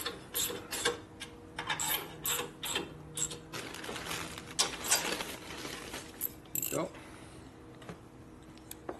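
Hand tools working metal fasteners on a motorcycle during assembly: irregular clicks and clinks in short runs as screws are driven home, thinning out near the end.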